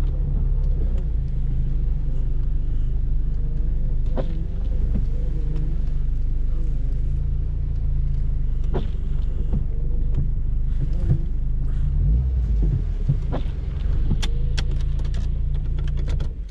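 Peugeot 205 XS's 1.4-litre (1360 cc) four-cylinder carburettor engine idling steadily, heard from inside the cabin, with a light click about every four and a half seconds. The engine sound drops away right at the end.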